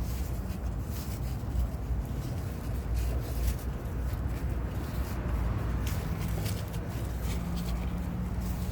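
Light rubbing and scattered small clicks of hands working FiberFix wrap around an exhaust pipe, over a steady low rumble.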